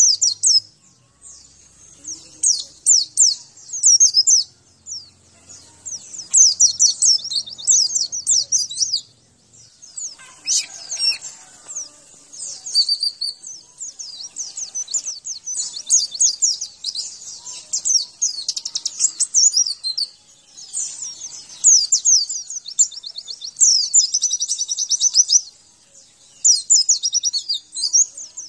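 White-eye (pleci) singing: rapid, high-pitched twittering phrases a second or two long, repeated with short gaps, the full energetic 'gacor' song used as a masteran to get caged white-eyes answering and singing.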